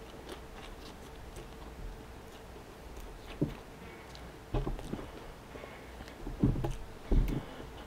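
Close-up eating sounds: chewing a mouthful of fried chicken sandwich, with small wet mouth clicks and a few soft thumps in the second half, and a thumb being licked about halfway through.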